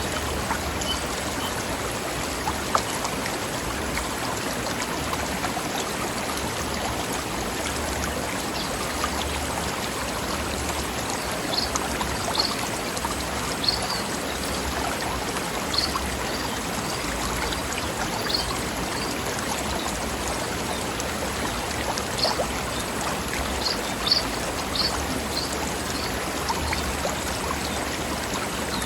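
Mountain stream running steadily over rocks, a continuous bubbling rush of water, with short high notes cutting in now and then through the middle part.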